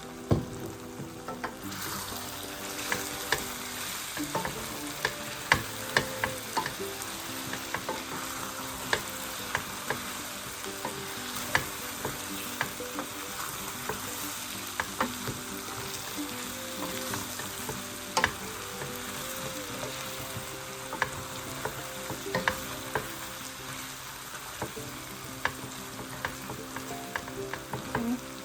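Chicken and cauliflower sizzling in a pan. A utensil stirring and knocking against the pan makes scattered sharp clicks. The sizzle rises about two seconds in, once the food is stirred.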